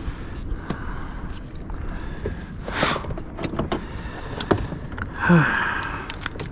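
Metal fishing tackle jingling and clicking with small knocks, as a caught sauger and its rig are handled in a kayak. A short vocal sound about five seconds in.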